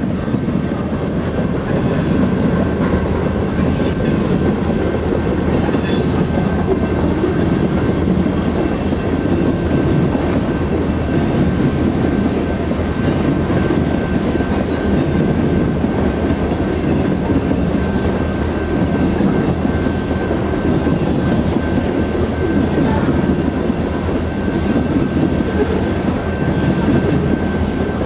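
Coal cars of a freight train rolling past: a steady rumble of steel wheels on rail, with a thin, steady high ring over it and scattered faint clicks.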